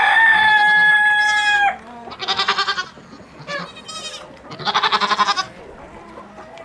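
Rooster crowing, its long held final note breaking off under two seconds in, followed by two short wavering, quavering calls from farm animals about two seconds apart.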